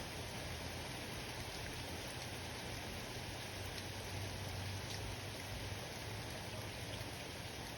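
Steady rain falling during a thunderstorm, an even hiss with a few faint drop ticks.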